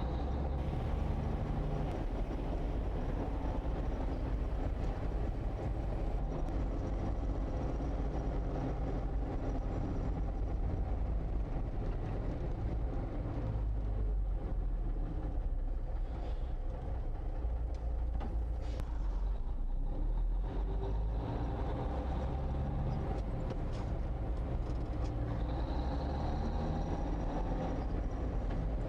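1954 Kenworth tractor's naturally aspirated Cummins 220 inline-six diesel running with a steady low drone.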